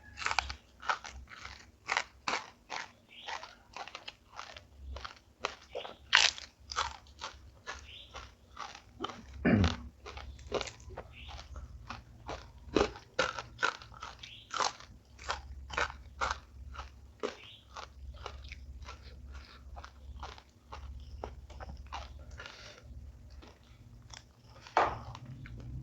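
A person chewing crunchy food up close, mouth-loud bites and crunches coming several times a second.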